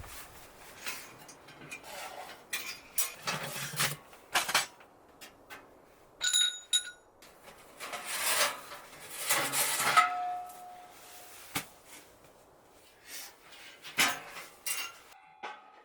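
Metal camp cookware and gear being handled: irregular clinks, knocks and scrapes, with a short metallic ring about six seconds in and another brief ring near ten seconds.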